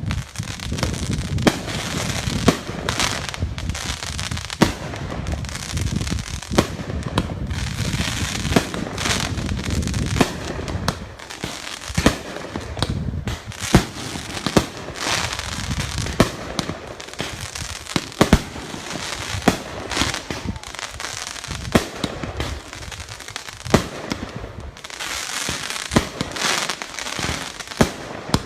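Fireworks going off in a long irregular volley: many sharp bangs, sometimes several a second, with crackling between them.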